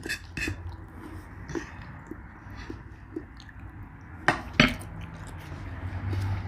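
Close-miked eating sounds: soft chewing and small mouth noises, with two sharp clicks of a utensil against a dish about four and a half seconds in.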